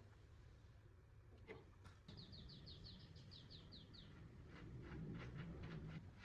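Faint bird call: a quick trill of about a dozen evenly spaced high chirps lasting about two seconds, followed by a few faint ticks, over near-silent room tone.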